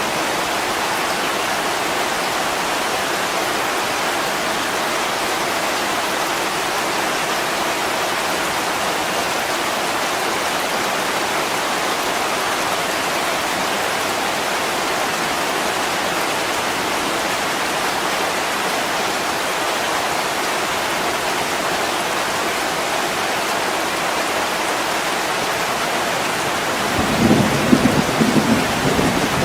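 Steady heavy rain hiss. About 27 seconds in, a low rumble of thunder begins and grows louder.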